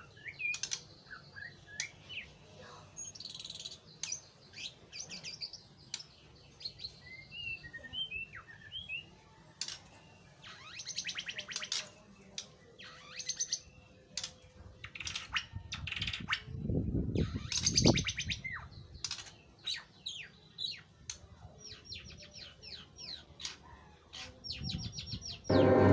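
White-rumped shama (murai batu) singing a varied song: clear whistled notes, fast trills and quick chattering phrases in bursts with short pauses. There is a brief lower rumble about two-thirds of the way through.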